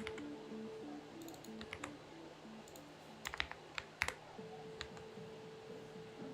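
Xinmeng X98 mechanical keyboard being typed on in sparse, irregular bursts of keystrokes, with a quick cluster a little past the middle, over soft background music.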